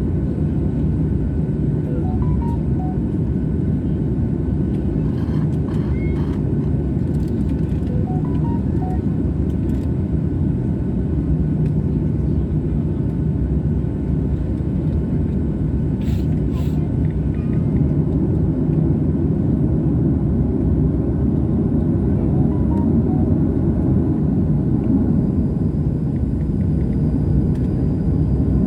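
Airliner engines and airflow heard inside the cabin: a steady, heavy rumble that grows a little louder about halfway through.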